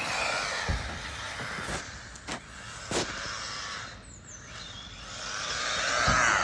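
Electric radio-controlled cars running, their motors and tyres whining, with sharp knocks as they hit bumps; the whine fades about four seconds in, then swells as a car comes close near the end.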